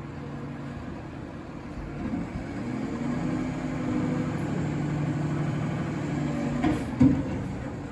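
Garbage truck's engine running, with a steady drone that grows louder a couple of seconds in and then holds. About seven seconds in comes a single short, loud knock.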